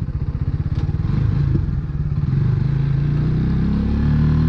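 Rusi Classic 250 motorcycle engine running while riding, with distinct exhaust pulses for about the first second, then a steadier engine note that rises slightly near the end as it picks up speed.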